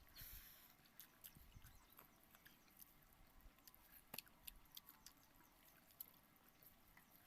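Faint close-up eating sounds: a person chewing soft watered rice (pakhala) and potato curry, with many small mouth clicks scattered irregularly throughout and a brief slurp-like rush just after the start.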